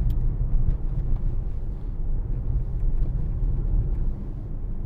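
Mercedes-AMG GLC63 S 4.0-litre twin-turbo V8 running on the move: a steady low rumble from the engine and exhaust, with road noise.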